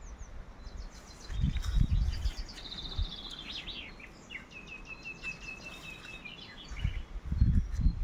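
A small songbird sings a long, fast song of rapidly repeated chirps, ending in an even run of notes. A low rumbling noise on the microphone comes about a second and a half in and again near the end, louder than the song.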